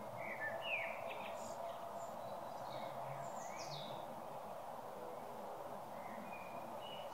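Songbirds giving a handful of short chirps and gliding calls over a steady background hum of outdoor noise.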